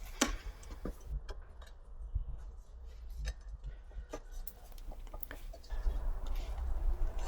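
Scattered light clicks and taps of hand tools working a tyre off a scooter's front wheel rim, over a steady low hum.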